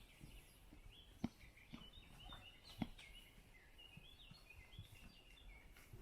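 Faint songbird warbling in quick, high, gliding phrases over quiet outdoor background, broken by two sharp clicks about a second and almost three seconds in.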